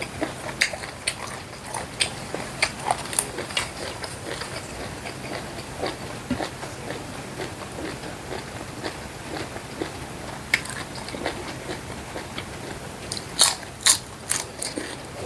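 Close-up eating sounds: irregular wet crunching, clicking and smacking while chewing, with two sharper clicks near the end.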